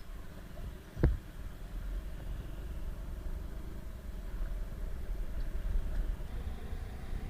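Motorcycle on the move: steady low engine and road rumble with a sharp knock about a second in.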